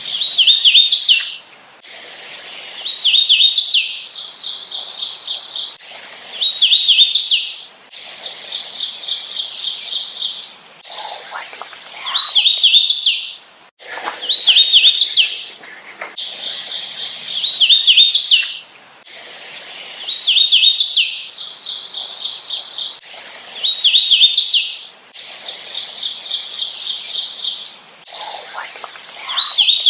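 Hooded warbler singing over and over, a loud song phrase every two to four seconds. Some phrases are clear slurred whistles ending in a rising upslur, others quick even runs of short repeated notes.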